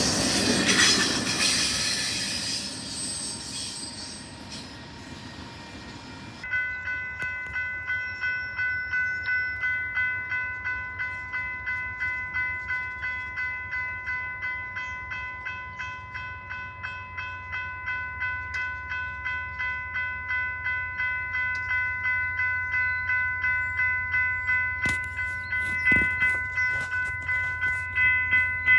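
A passing train's rumble fading away, then a bell ringing steadily at about two strokes a second, with a few sharp knocks near the end.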